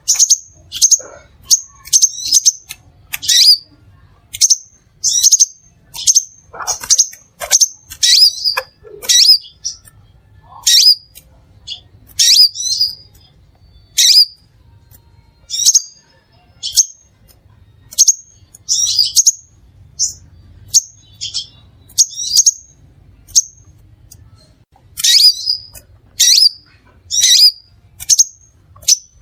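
Crimson sunbird calling: a quick series of short, sharp, high chirps, about one to two a second, some bunched in fast clusters.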